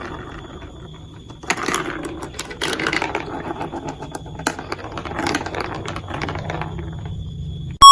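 Plastic marble run pieces clattering as marbles roll and drop through the track, a rapid run of small clicks and rattles with louder bursts a few times. A loud electronic tone cuts in at the very end.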